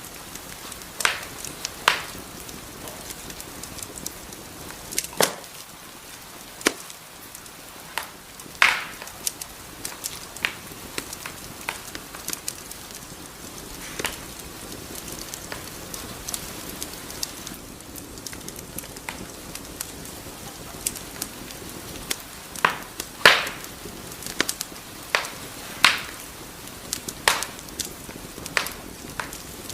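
Wood fire crackling in a fireplace: a soft steady hiss with irregular sharp pops and snaps from the burning logs, a few of them louder than the rest.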